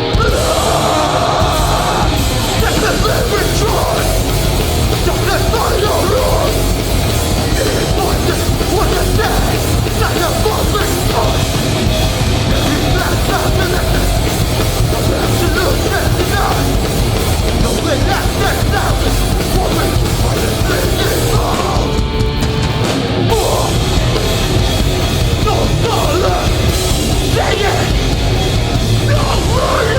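Live hardcore punk band playing loud, with distorted electric guitars, bass, a pounding drum kit and shouted vocals.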